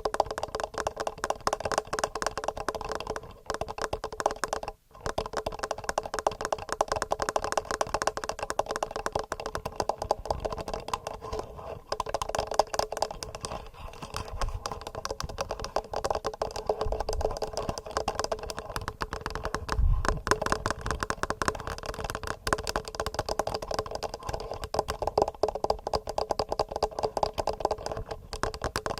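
Fast fingernail tapping on a TASCAM handheld recorder, heard through its own microphones: a dense, continuous clatter of clicks with brief gaps about three and five seconds in.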